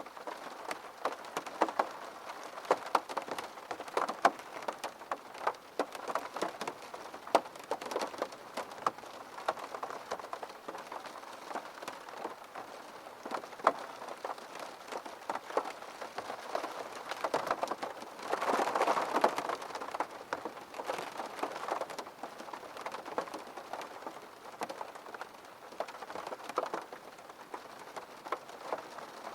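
Rain falling on a window pane: a steady patter with many irregular sharp drop ticks. It grows heavier for a couple of seconds about two-thirds of the way through.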